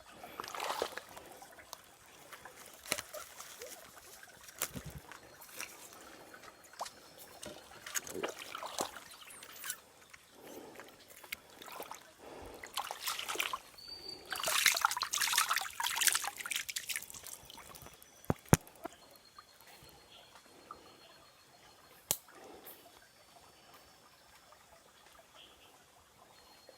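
Shallow water sloshing and trickling in irregular splashes, with scattered sharp clicks; the splashing is heaviest a little past the middle.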